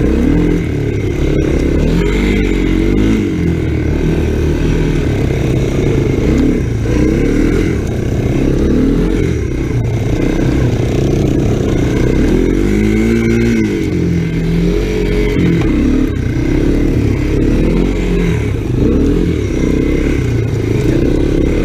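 Honda ATC 250SX three-wheeler's single-cylinder engine running under way, its pitch rising and falling repeatedly as the throttle is worked.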